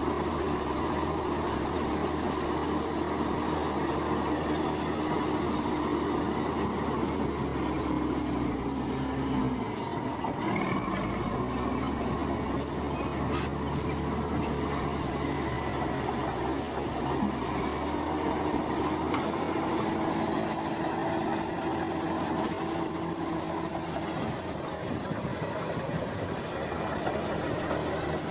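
Heavy earthmoving machine's diesel engine running steadily, its note shifting about eight to twelve seconds in, then settling again.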